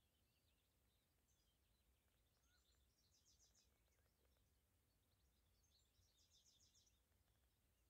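Faint, distant birdsong: scattered high chirps, with two short bursts of rapid high twittering about three and six seconds in, over a steady low background rumble.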